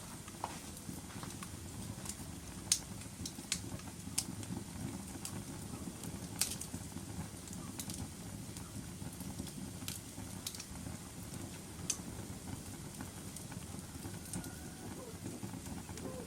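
Wood fire burning in a fireplace: a steady low rumble of flames with scattered sharp crackles and pops, the loudest pop about three seconds in.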